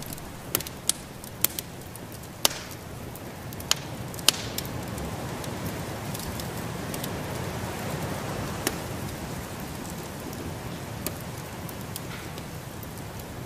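Wood fire crackling in a fireplace: sharp pops, most of them in the first four seconds and a few more later, over a steady hiss.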